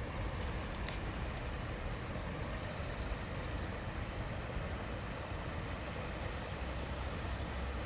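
River water babbling and rushing steadily over stones, with a low rumble, possibly touched by wind on the microphone; a faint click about a second in.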